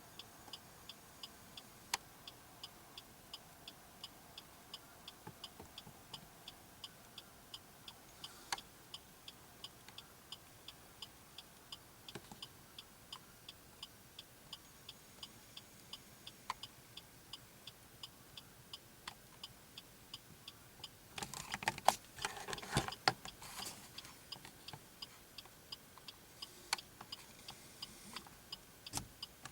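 Faint, regular ticking, about two ticks a second, with a short cluster of louder clicks and knocks a little over two-thirds of the way through.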